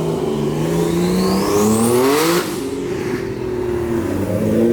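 Turbocharged sports car accelerating hard: the engine revs climb with a high whine rising over them, drop sharply at a gear change about two and a half seconds in, then climb again.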